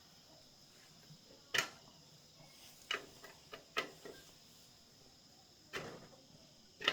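Scattered sharp clicks and knocks of hand tools working on a motorbike wheel during an inner-tube puncture repair, about seven in all at uneven intervals, the loudest about a second and a half in.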